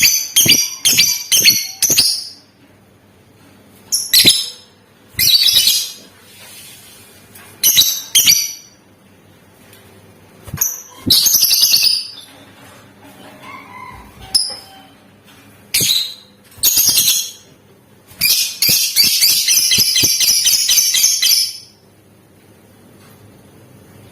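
Lovebird singing: a series of short, shrill chattering bursts, then a long rapid trill lasting about three seconds near the end, the continuous chatter keepers call ngekek.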